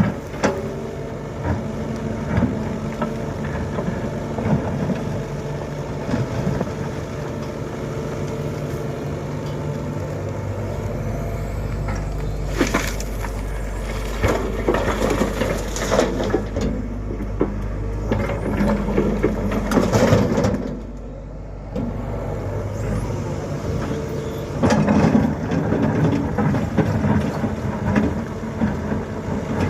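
Tata Hitachi 120 excavator's diesel engine running steadily, deepening under load for several seconds, with three bursts of loud crashing and rattling as its bucket dumps loads into a Leyland truck's bed.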